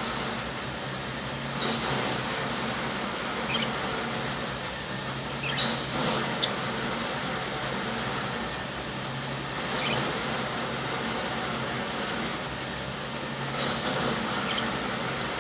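Budgerigars chirping briefly a few times over a steady rushing noise with a faint low hum, and one sharp click about six seconds in.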